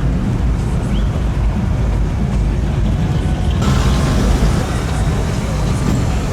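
Low engine rumble of classic cars cruising slowly past. A louder rushing noise joins in a little past halfway.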